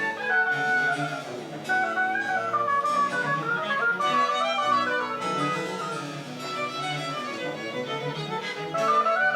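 French Baroque chamber music played on a woodwind and bowed strings, with melodic lines moving over a sustained bass line.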